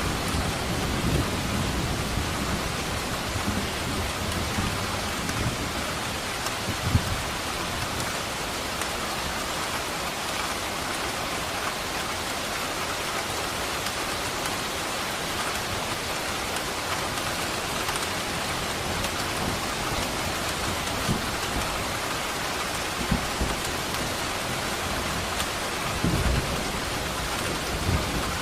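Steady rain falling, with thunder: a rumble dying away at the start, a short low rumble about seven seconds in, and another rumble building near the end.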